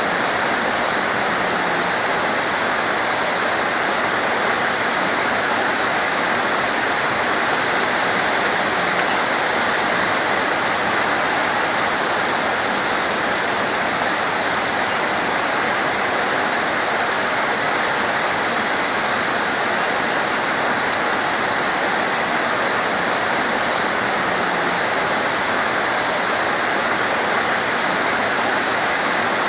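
Heavy torrential rain falling steadily, a dense, even hiss with no let-up, and a single sharp tick about two-thirds of the way through.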